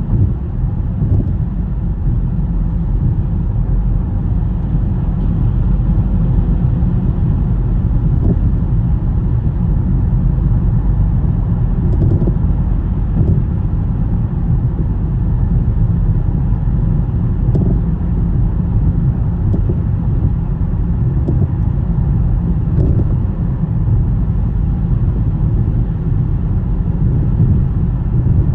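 Car driving on a snowy road: a steady low rumble of tyres and engine.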